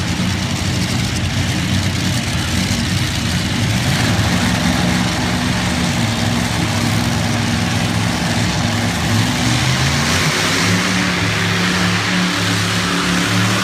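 Tractor-pull engine running hard and loud under load, its note growing stronger about four seconds in and changing pitch again around ten seconds.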